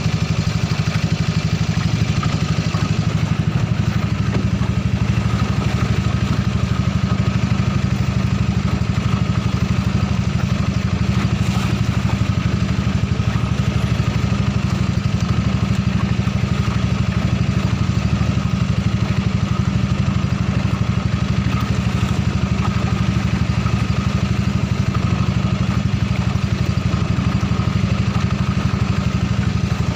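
Honda 6.5 hp engine of a ketinting longtail boat running steadily at a constant speed, with no change in pitch or loudness.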